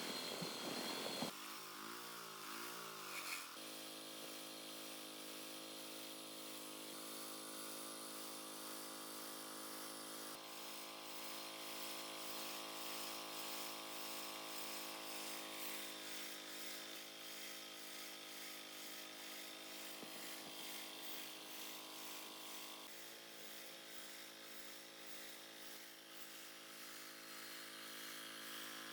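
D26 diesel generator engine running. Its pitch wavers for the first few seconds, then it settles into a steady, even run.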